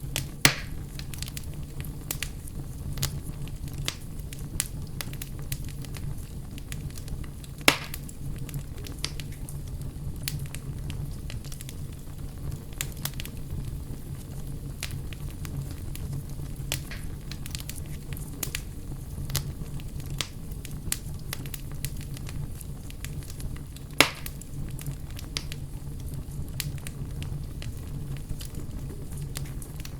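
Campfire burning and crackling, with frequent small snaps and three louder pops: one about half a second in, one near 8 s and one near 24 s.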